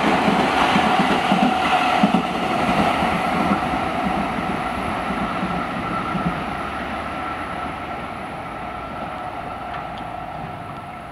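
Seibu 30000 series commuter cars, towed unpowered on a delivery run, passing at speed with a rhythmic clickety-clack of wheels over the rail joints. After about six seconds the clatter thins out and the train noise fades steadily as it runs off into the distance.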